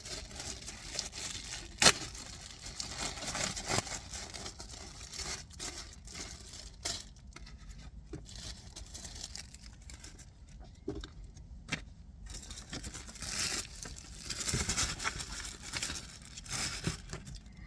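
Packaging of a new cabin air filter being handled and opened: uneven crinkling and rustling with scattered clicks and knocks, the sharpest about two seconds in.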